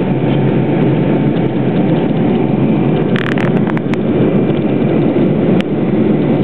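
Steady roar of engine and airflow noise inside the cabin of a Boeing 727 climbing after take-off. A few short clicks or rattles sound about halfway through, and one more near the end.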